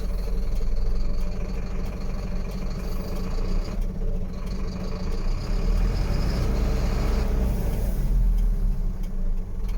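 Mercedes-Benz Atego 1222 truck's diesel engine running, its revs rising about halfway through, with a brief hiss of air a little later.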